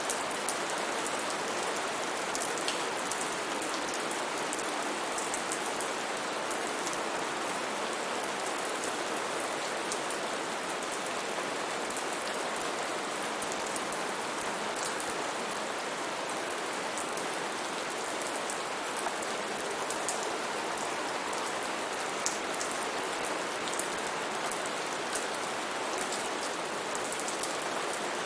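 Steady rainfall on foliage, with the close patter of individual drops over a constant hiss.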